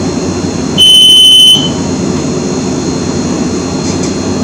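A loud electronic beep, one steady high tone a little under a second long, about a second in, over a steady low rumbling hum.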